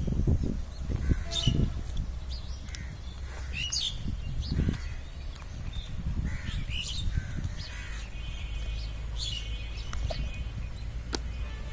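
Birds chirping and calling in short, scattered calls, a few of them harsh and caw-like, over a low rumble. There are dull low thumps in the first couple of seconds and again near the middle.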